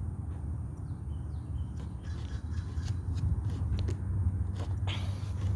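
Outdoor ambience: a steady low rumble with scattered light clicks, and a harsh bird call about five seconds in.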